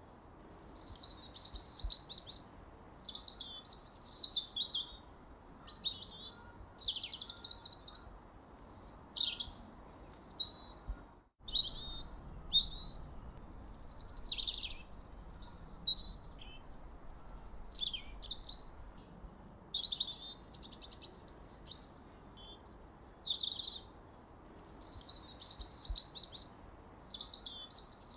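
Songbirds singing and chirping: short, quick, high-pitched warbled phrases following one another almost continuously over a faint steady background hiss. The sound drops out completely for an instant about 11 seconds in.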